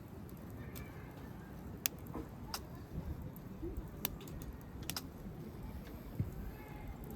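Campfire crackling: a few sharp, irregular pops over a low steady rumble.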